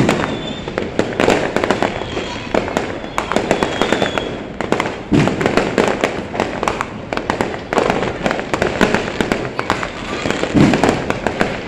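New Year's fireworks and firecrackers going off in a dense, near-continuous barrage of sharp bangs and crackles, with a faint high whistle a couple of times in the first half.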